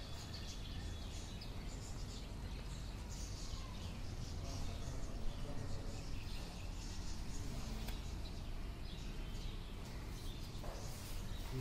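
Outdoor ambience: birds chirping over a steady low background noise.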